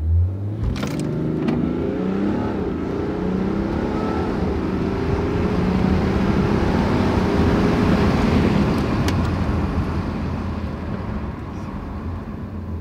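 BMW 530d xDrive's 3.0-litre straight-six turbodiesel, Stage 1 ECU-tuned, heard from inside the cabin accelerating hard from a standstill. The engine note climbs and drops back through several quick automatic upshifts, then makes one long pull and eases off near the end.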